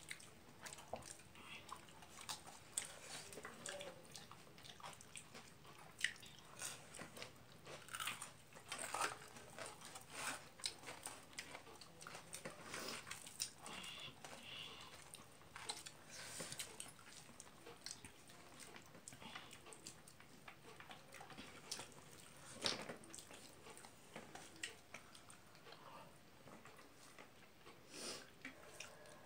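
A person chewing and eating rice and egg curry by hand: many faint, irregular mouth clicks and chewing sounds.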